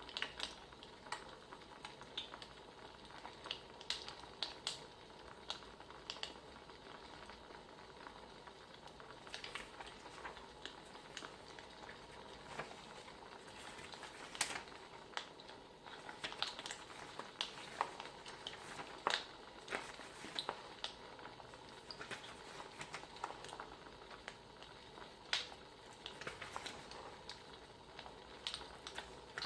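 Crackling wood fire: faint, irregular pops and snaps over a soft steady hiss.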